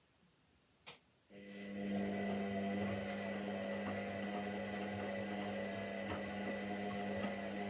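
Washing machine starting up in its spin cycle: a single click just under a second in, then the motor comes in with a steady humming tone that swells briefly and settles into an even running drone.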